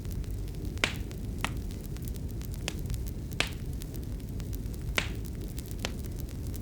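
Wood fire crackling in a fireplace: sharp, irregular pops about once a second over a steady low rumble of the burning fire. The loudest pops come about a second in, halfway through and near the end.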